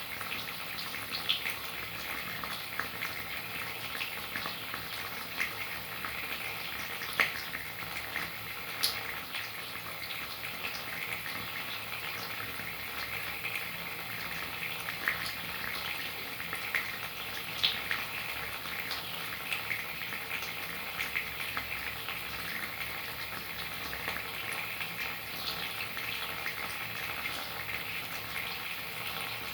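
Steady rain falling: a constant even hiss scattered with small drop ticks and a few sharper, louder drop hits.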